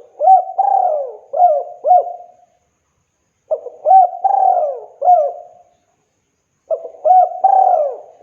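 Spotted dove (tekukur) cooing: three phrases of four or five gliding coo notes each, about three and a half seconds apart, with silence between them.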